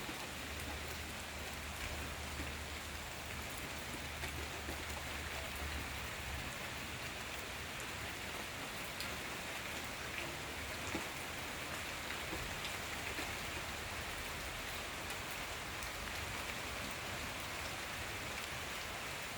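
Steady rain falling, with scattered individual drops ticking through it. A faint low hum sits under the rain for the first several seconds.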